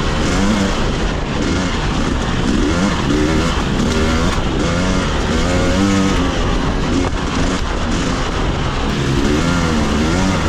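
Dirt bike engine running loud, its revs rising and falling continually under changing throttle.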